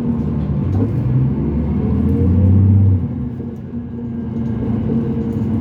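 Cummins ISL diesel engine of a 2005 New Flyer D40LF transit bus pulling under load, its note rising and getting louder, then dropping abruptly about three seconds in before building again.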